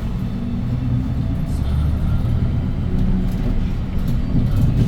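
Cabin noise of a 2017 Hyundai Green City city bus under way: its C6GB G240 compressed-natural-gas engine, driving through a five-speed manual gearbox, gives a steady low rumble along with road noise.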